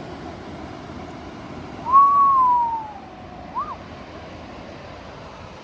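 Steady wash of surf and wind at the beach. About two seconds in, a single clear whistled note sounds for about a second, sliding slowly down in pitch. A short rising-and-falling whistle follows soon after.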